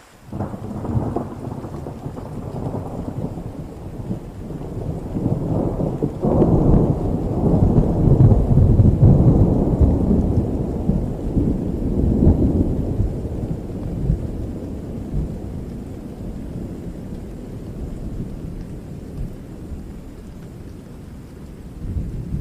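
A long roll of thunder over steady rain. It breaks suddenly at the start, swells to its loudest about a third of the way through, then slowly rumbles away, and a new rumble starts near the end.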